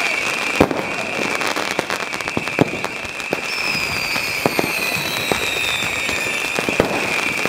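Fireworks going off all around: scattered bangs and crackling pops from exploding rockets and firecrackers, the sharpest bang about half a second in. A thin, falling whistle sounds in the middle.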